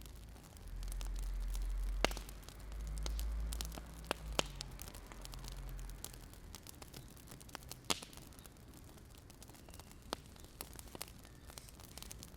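Wood fire crackling, with irregular sharp pops and snaps over a faint hiss. A low rumble swells twice in the first few seconds.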